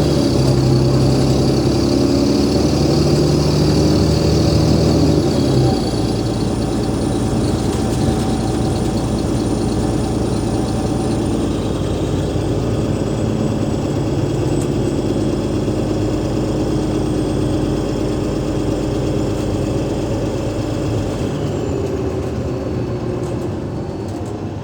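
Cummins ISL8.9 straight-six diesel of an Alexander Dennis Enviro500 MMC double-decker bus running with a strong drone that drops suddenly about five and a half seconds in, then settles into a steady idle.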